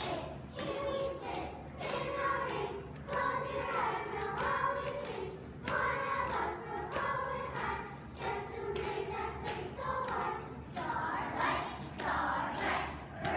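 A group of children singing together unaccompanied, in phrases of held notes.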